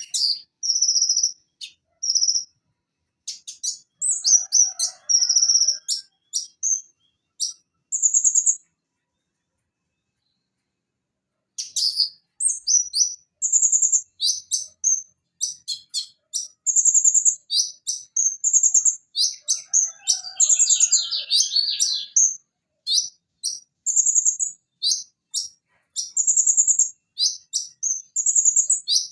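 Konin, the purple-throated sunbird (Leptocoma sperata), singing rapid, high-pitched chirps, trills and sharp calls. The song breaks off for about three seconds near the middle, then comes back denser.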